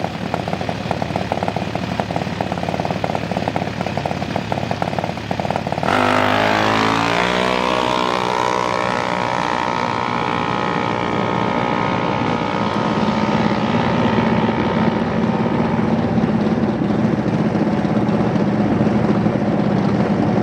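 Junior dragster's single-cylinder engine through a Borla muffler at full throttle on a drag run. It runs at a steady low rumble, then about six seconds in it suddenly gets louder and climbs quickly in pitch as the car launches. It holds a high steady note for several seconds and drops to a lower note near the end as the throttle comes off.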